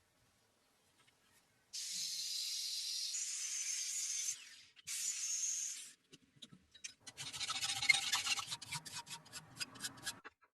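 Abrasive hand work rubbing on a steel blade: two long, steady hissing strokes, then a run of short, rapid rasping strokes near the end.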